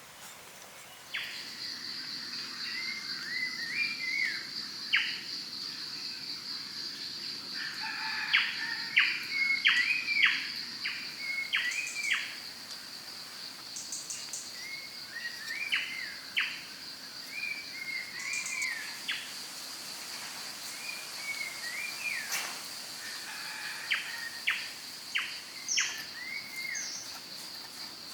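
Birds calling in repeated short chirps over a steady high-pitched buzz that starts about a second in.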